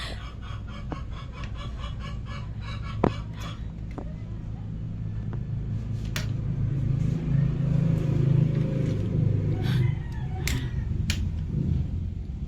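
A steady low engine hum that grows louder through the middle and eases off near the end, with several sharp clicks, the loudest about three seconds in.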